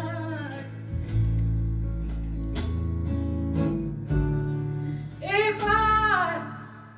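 Live band playing an instrumental passage of a slow folk ballad: guitar over a sustained bass line, with a short higher melodic phrase coming in about five seconds in.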